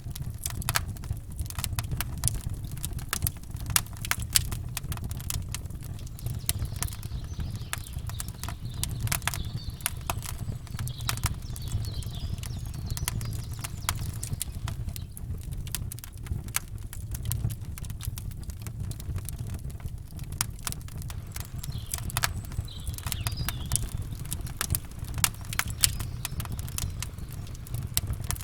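Campfire crackling, with many sharp irregular pops and snaps over a low steady rumble. Faint bird chirps come in a few times.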